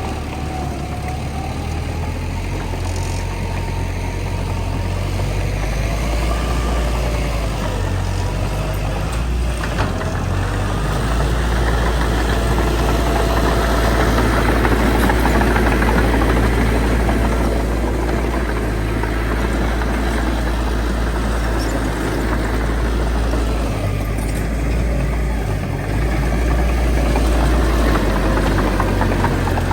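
Heavy diesel engine of earthmoving machinery running continuously with a deep low drone. It grows louder and fuller about halfway through, then eases back.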